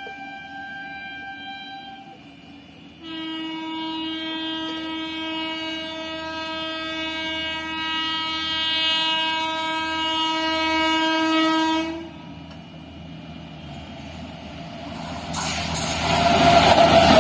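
Indian Railways locomotive horn held in one long blast of about nine seconds, after a fainter tone at the start. Once the horn stops, the rush and rumble of the passing train builds and grows loud near the end.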